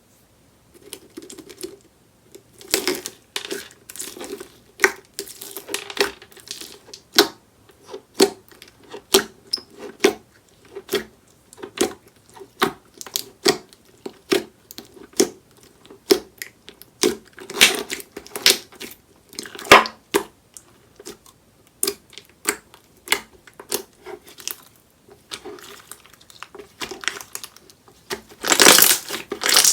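Peach 'tongtong ball' slime being pressed and squished by hand, giving a sharp crackly pop about once a second. Near the end it turns into a louder, denser crunching.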